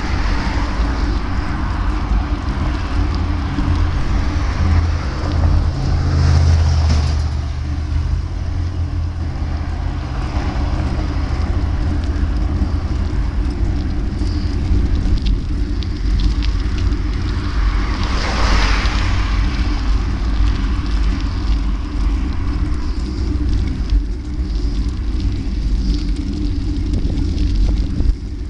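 Wind rushing over the microphone and a steady low rumble of riding on the road, with a louder rushing swell about six seconds in and again about eighteen seconds in, like a vehicle passing.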